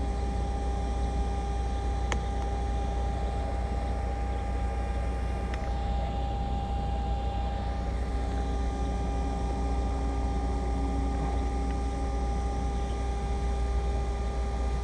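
Steady mechanical drone with a constant hum, unchanging throughout, with a faint click about two seconds in.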